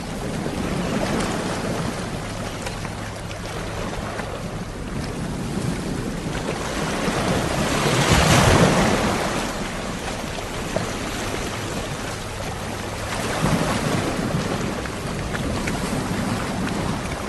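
Sea waves washing onto the shore, the surf swelling and fading; the largest wave breaks about halfway through, and a smaller one follows a few seconds later.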